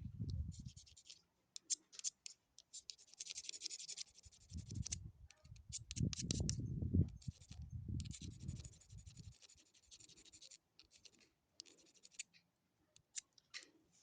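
Repeated scraping and scratching strokes, some drawn out for a second or two, mixed with short clicks. Low muffled bumps and rumbling come in the middle.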